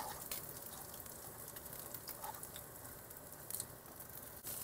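Garlic, ginger, dried chilies and chili paste sizzling quietly in hot oil in a wok, with a few light clicks as they are stirred.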